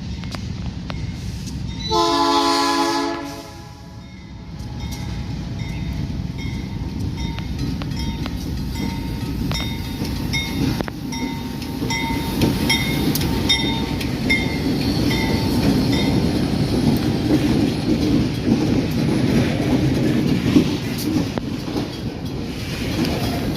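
MRS pulp freight train arriving: the diesel locomotive's horn sounds once for about a second and a half near the start, then the train rolls in with a steady rumble. A regular ticking runs through the middle, and the rumble grows louder toward the end.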